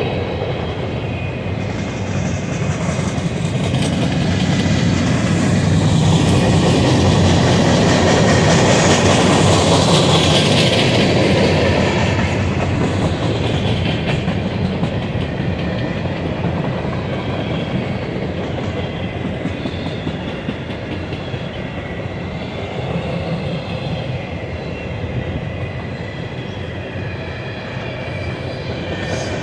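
Freight train cars (boxcars, covered hoppers and tank cars) rolling past at speed, their steel wheels rumbling on the rails. It swells louder for several seconds a little after the start, with faint high steady squealing tones above the rumble.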